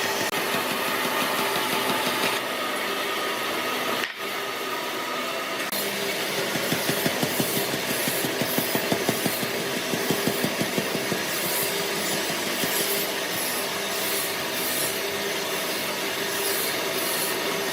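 A hand or power tool working wood, with a steady rubbing, rasping noise. The sound breaks off abruptly about four seconds in and resumes as rhythmic back-and-forth strokes, about three a second.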